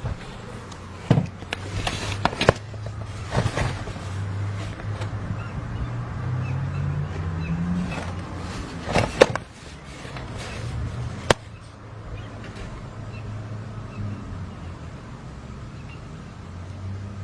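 A motor vehicle's engine running, its pitch rising between about five and eight seconds in, with several sharp knocks over it.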